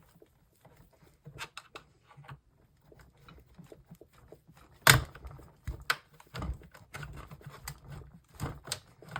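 Plastic monitor housing being pried open with a tool: scattered small clicks and scrapes, with one loud sharp snap about five seconds in and several smaller knocks after it.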